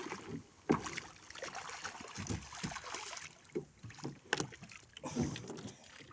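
Irregular knocks and thumps aboard a small fishing boat at sea, several separate strikes a second or more apart over a low wash of background noise.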